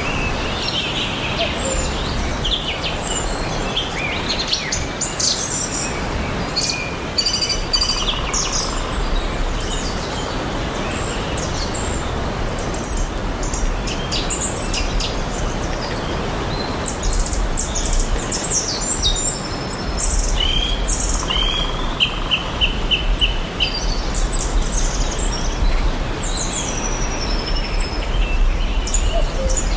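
Several songbirds chirping and calling in short, overlapping phrases, one of them giving a quick run of evenly repeated notes about two-thirds of the way through, over a steady background hiss.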